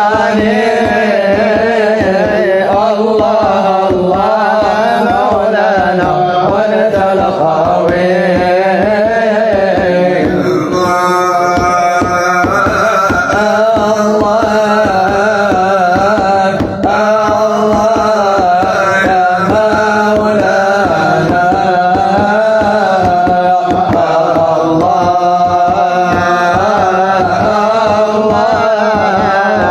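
Religious song (madih/nasheed) sung in a melismatic, wavering voice over a steady hand-drum rhythm.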